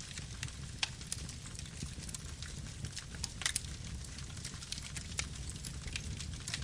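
Campfire burning: wood crackling and popping in irregular sharp clicks, a few louder pops among them, over a steady low rumble of the flames.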